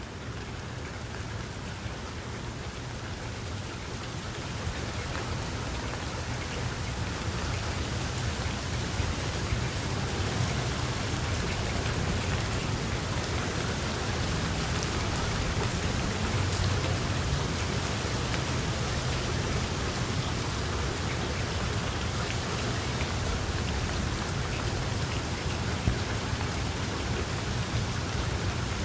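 Steady rain falling on surfaces, a dense even hiss with a low rumble underneath, growing gradually louder over the first several seconds and then holding steady.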